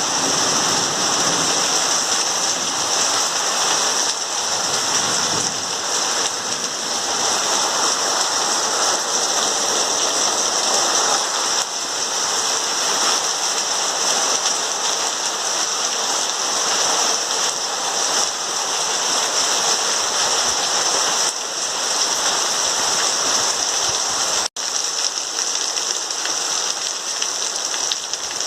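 Heavy rain pouring steadily, with an even, unbroken hiss of downpour. The sound cuts out for an instant about 24 seconds in.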